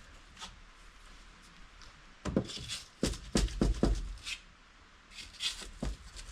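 Knocks and scraping of wood as an old wooden door frame is worked loose: a cluster of sharp knocks about two seconds in, and a few more near the end.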